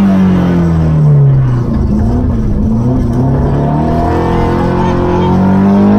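Opel Ascona B rally car's engine heard from inside the cabin. The engine note falls over the first second and a half, breaks briefly, wavers, then climbs steadily as the car accelerates through the rest.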